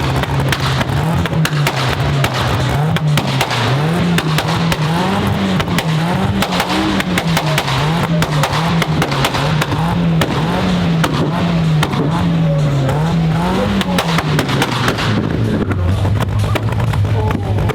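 Sports car engine revved over and over, its pitch rising and falling about once a second, with sharp crackling pops from the exhaust; near the end it settles to a steadier, lower run.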